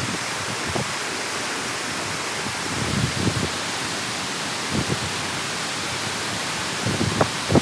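Water rushing steadily through a dam or drain, heard as an even hiss, with a few brief low bursts of noise about three, five and seven seconds in.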